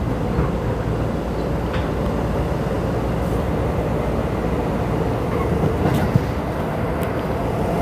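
Keisei 3500-series electric train running, heard from inside the car: a steady rumble of wheels and traction motors, with a few sharp clicks from the rails.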